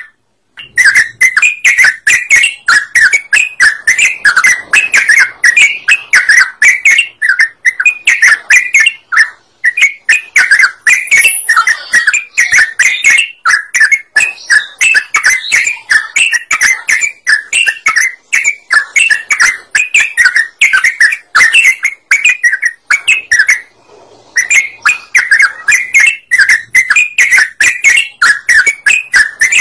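Yellow-vented bulbul (trucukan) singing energetically: a loud, fast, unbroken string of bright chirping notes, with short pauses near 9 seconds and around 24 seconds.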